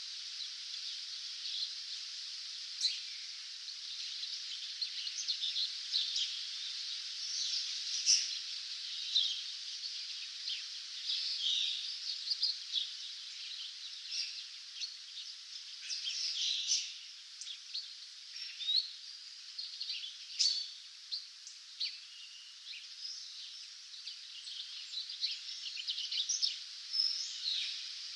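Dawn chorus of several songbirds: many short chirps and trills over a steady high hiss of background birdsong.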